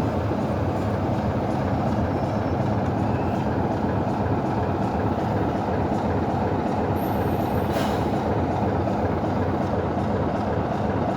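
Heritage train with a Black 5 steam locomotive and a Class 27 diesel, a steady, even running noise with a brief click about eight seconds in.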